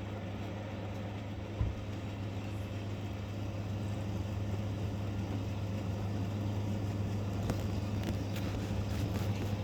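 Steady low engine hum, with a few faint sharp taps in the last couple of seconds.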